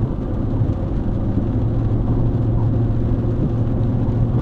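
Car driving on a wet road: steady engine and tyre noise with a low hum.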